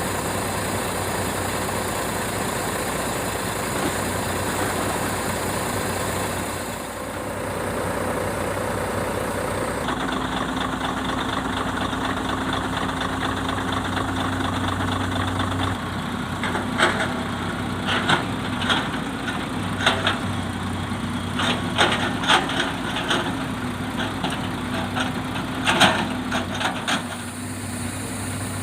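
A heavy diesel engine runs steadily, its note shifting about a third of the way in. From about halfway on comes a series of sharp knocks, rubberwood logs clattering as they are loaded onto the truck.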